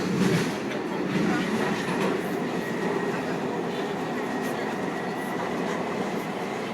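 Washington Metro railcar running, heard from inside the car: a steady rumble of wheels on the rails with a faint, steady high whine over it.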